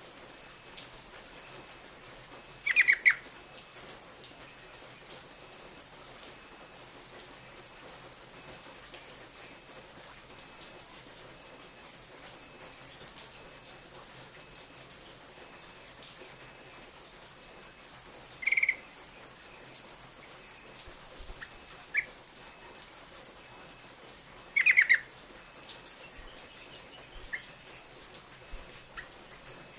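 Yellow-vented bulbul (trucuk) giving short, loud calls a few times, the strongest near the start and about three-quarters of the way through, over a steady high hiss.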